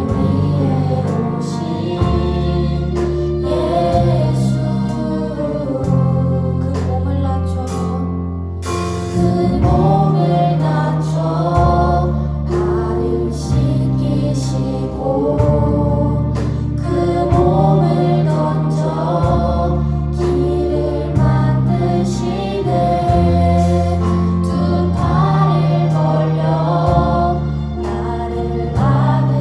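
Live church praise music: a group of singers with band accompaniment, over sustained low bass notes and a steady beat.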